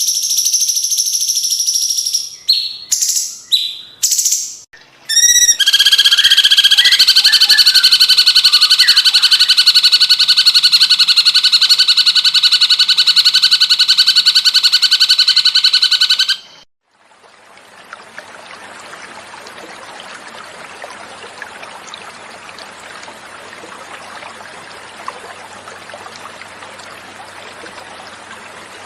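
Cucak cungkok song: high clear whistled notes, then a loud rapid buzzing trill held for about eleven seconds that cuts off abruptly. After it, a quieter steady sound of flowing water.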